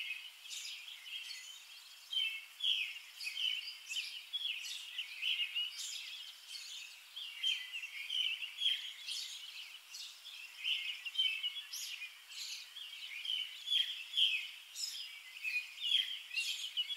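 Small birds chirping and twittering, many short high chirps a second overlapping throughout.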